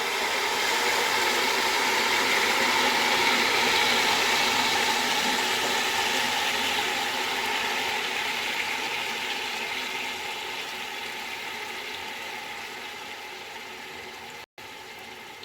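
Jaggery syrup poured into hot ghee with fried whole spices, sizzling and bubbling hard at first and then slowly dying down. The sound cuts out for an instant near the end.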